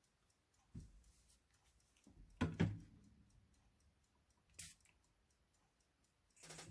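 Short hisses from a small pump spray bottle of paint misting onto a card, one about four and a half seconds in and another near the end, with knocks from the bottle being handled and set down about a second in and two and a half seconds in.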